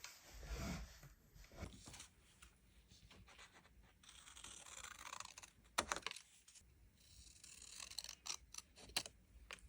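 Faint paper and stationery handling: soft rustling and light scraping, with a sharp click about six seconds in and several small clicks near the end.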